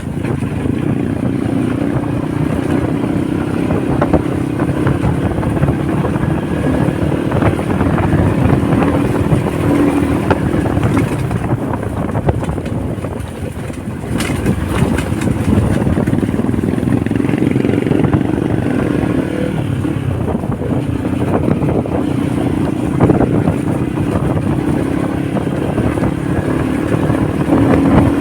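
Honda motorcycle engine running while riding, a steady engine note over road and wind rumble; the engine eases off briefly about halfway through, then picks up again.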